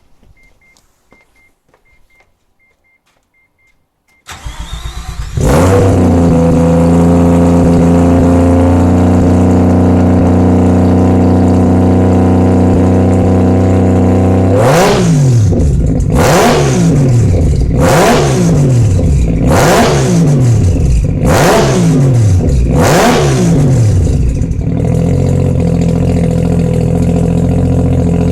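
Mazda RX-7 FD's turbocharged 20B three-rotor rotary engine with a loud exhaust. It cranks and fires about four seconds in, after a faint rapid beeping, then idles steadily at raised revs. It is then blipped six times, roughly every second and a half, before dropping to a lower, lumpy idle.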